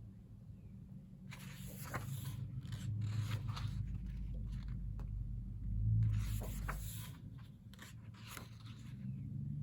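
Pages of a photobook being turned by hand: paper sliding and rustling in about four separate swishes, with low handling rumble underneath.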